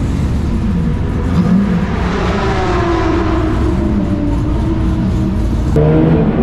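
Supercharged LS7 V8 of a Holden VF Commodore race car running at low revs, its pitch wavering up and down as the car moves off. The sound changes abruptly near the end.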